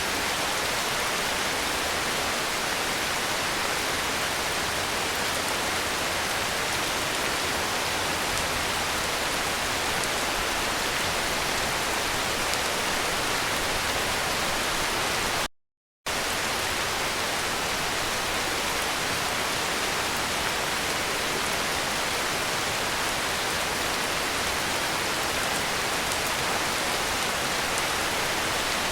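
Heavy rain falling as a steady, even hiss, cut by a sudden half-second of complete silence about halfway through before it resumes unchanged.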